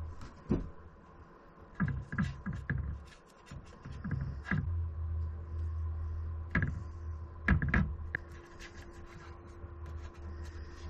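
A paintbrush scratching and dabbing as paint is worked into router-cut letters in walnut, with several separate knocks from handling the brush and paint over a steady low hum.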